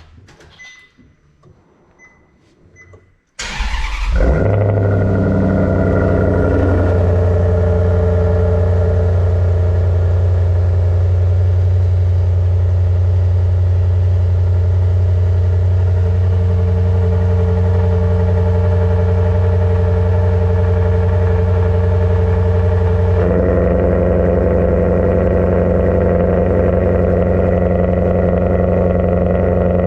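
A Maserati GranTurismo MC's V8 cold-starting: a few faint beeps, then about three seconds in the engine cranks and fires with a sudden loud burst. It settles into a steady fast cold idle, and the note shifts audibly near the end.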